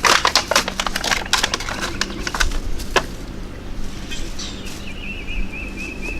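A quick run of clicks and taps from handling parts and tools on the water heater, then a small bird chirping in a fast, even series of short notes, about four a second, near the end.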